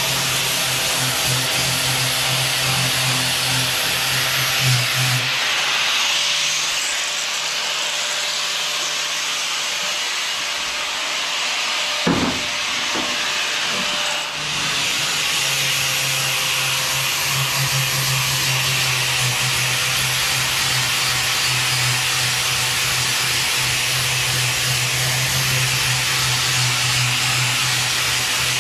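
A power tool or shop machine running steadily: a loud hiss over a low motor hum. The hum drops out for several seconds in the middle, and there is a sharp knock about twelve seconds in.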